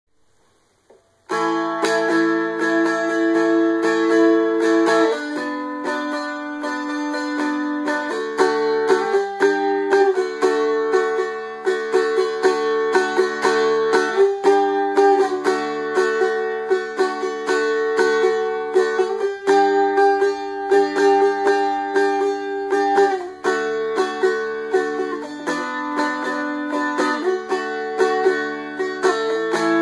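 Seagull Merlin, a four-string diatonic instrument akin to a mountain dulcimer, strummed in a quick steady rhythm, the chords changing every few seconds. The playing starts about a second in.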